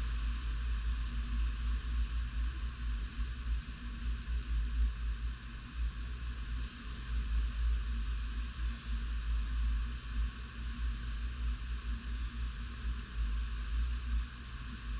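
Tropical-storm wind gusting and buffeting the microphone: a low rumble that rises and falls unevenly, over a steady hiss.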